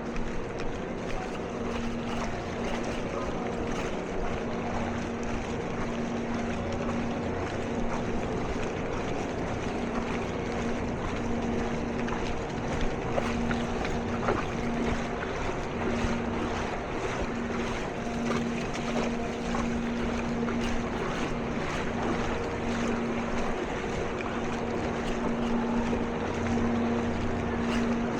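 A vehicle engine running steadily, its hum fading in and out, over a constant wash of water and wind noise.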